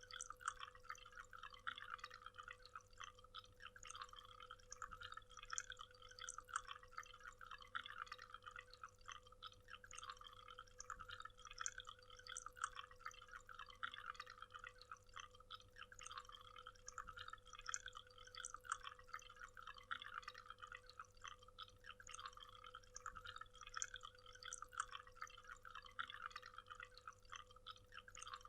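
Waterfall: water falling and splashing in a dense, fast patter of small drips and splashes, faint and steady.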